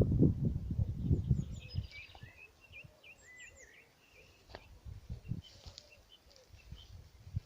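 Small birds chirping in short, quick calls outdoors. A loud low rumbling noise covers the first two seconds, and a few soft low thumps come later.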